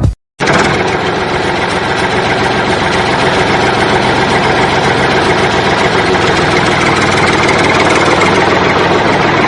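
An engine running steadily, starting abruptly about half a second in after a short break.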